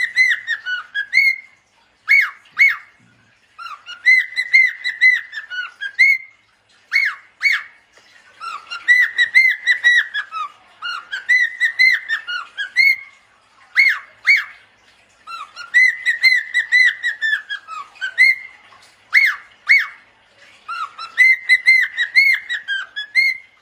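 A parrot calling in repeated phrases of whistled notes that rise and fall in pitch, mixed with short sharp calls, with brief pauses between phrases.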